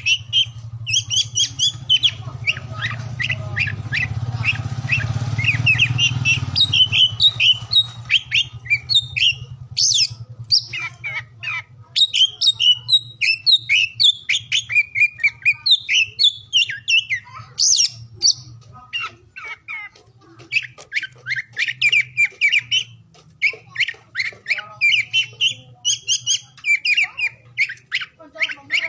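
Oriental magpie-robin (kacer) singing: rapid, varied runs of high chirps and whistles, over a steady low hum.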